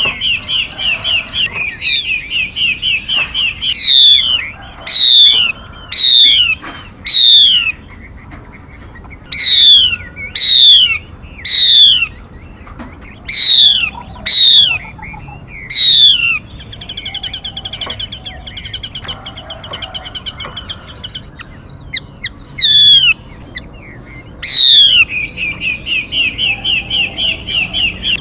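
Recorded calls of a female songbird played as a trapping lure: fast trills of chips alternate with runs of sharp, steeply falling notes, about one a second.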